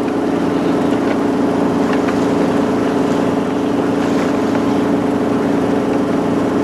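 A sailboat's engine running steadily under way, a constant hum with a rush of noise over it.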